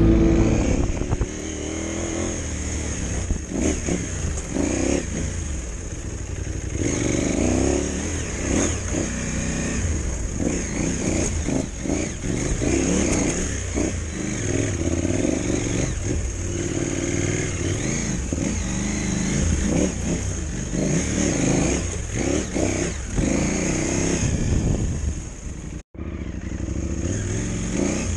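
KTM 790 Adventure R's parallel-twin engine under varying throttle, rising and falling as the bike climbs a rough trail, with short knocks from the bike over bumps. The sound cuts out for an instant near the end.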